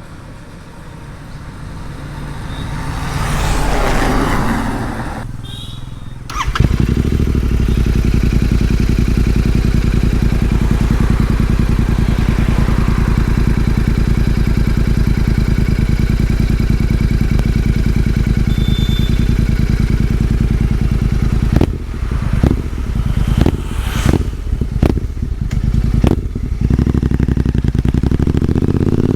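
Royal Enfield Continental GT 650's 648 cc parallel-twin engine comes in suddenly about six seconds in and idles steadily. Between about 22 and 26 seconds it gives a run of short throttle blips. Before the engine, a noise swells and fades.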